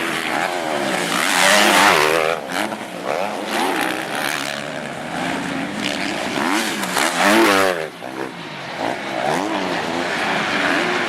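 Motocross bikes racing past, their engines revving up and down through the gears. Loudest pass-bys about two seconds in and again about seven and a half seconds in, with the sound dropping away sharply just after.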